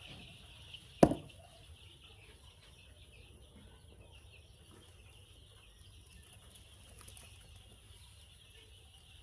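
Chickens clucking softly under a steady, high insect drone, broken about a second in by one sudden, sharp, loud sound with a brief falling tone.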